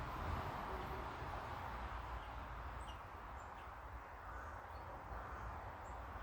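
Steady faint outdoor background hiss and rumble, with a few brief, faint high bird chirps scattered through the middle.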